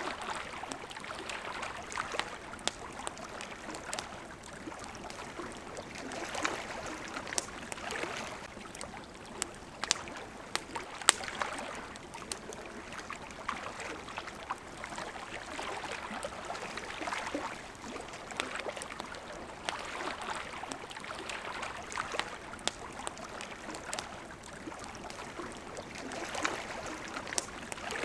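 Small waves lapping at a shore, swelling every two or three seconds, with the sharp pops and crackles of a wood campfire scattered over them; one louder pop comes about eleven seconds in.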